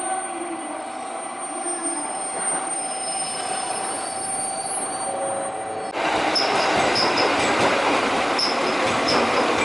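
Train noise, at first a steady hum with faint high tones. About six seconds in it cuts abruptly to a louder, rushing train running noise with short high squeaks every second or so.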